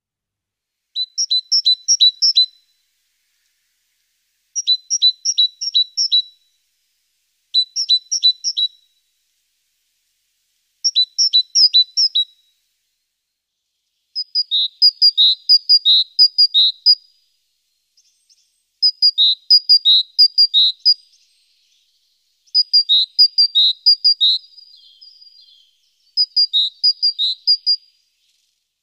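A songbird singing: eight short phrases of quickly repeated high notes, each phrase a second and a half to three seconds long with pauses between. The early phrases are repeated two-note figures, and the later ones are longer with a few lower notes.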